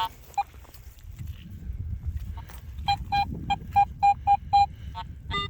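Metal detector beeping: a single short beep near the start, then from about three seconds in a run of about seven quick, same-pitched beeps, about three a second, as the detector sounds off on a buried target.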